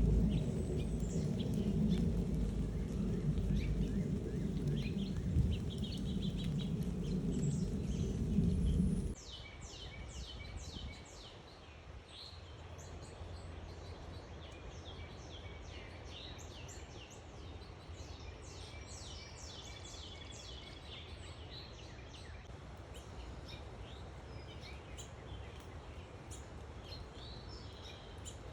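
Small backyard birds chirping: many short, quick, high notes, often in rapid runs. A loud low rumble covers the first third and cuts off abruptly, leaving the chirping clear over a quieter background.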